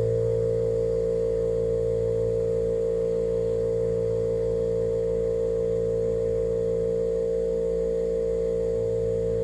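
A steady drone of several held tones, strongest in the middle range, unchanging in pitch and level.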